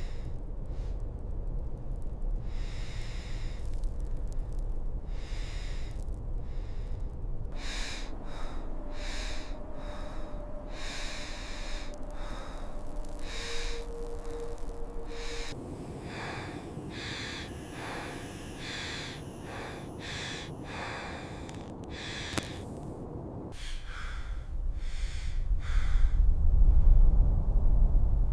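A person's heavy, ragged breathing, short gasping breaths every second or so, over a low rumble of blizzard wind that swells near the end.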